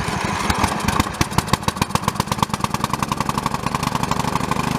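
Riding lawn mower's small engine running, firing in rapid, even, loud pulses that steady into a smoother hum near the end.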